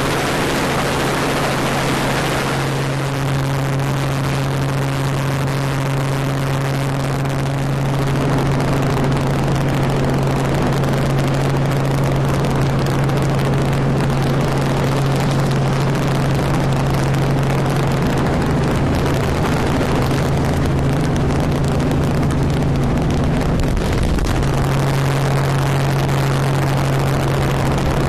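Helicopter running: a loud, steady low drone of engine and rotor over a broad rush of noise, which gets a little louder about eight seconds in.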